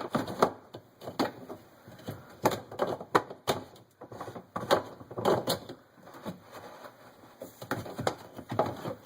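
Plastic filter assembly parts in the bottom of a GE Adora dishwasher clicking and knocking irregularly as they are handled and fitted back into place.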